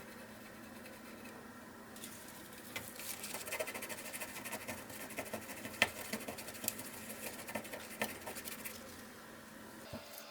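Irregular light scratching and clicking, with one sharper click about six seconds in, over a faint steady hum.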